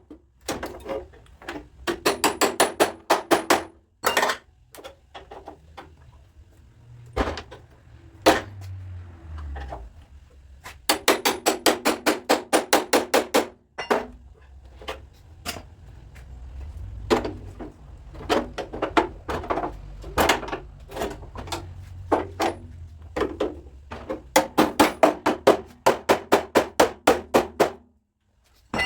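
Light hammer taps on a car's sheet-metal body panel during dent repair, coming in quick runs of about eight taps a second, with single taps between them. A low hum sits underneath for much of the time.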